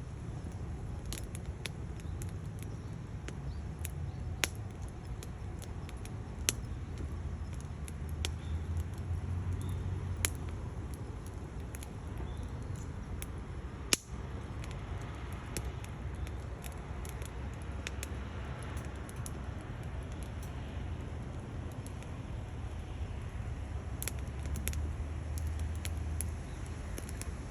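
Firewood burning in a stainless steel Bushbox XL wood stove: scattered sharp crackles and pops over a steady low rumble, the loudest pop about halfway through.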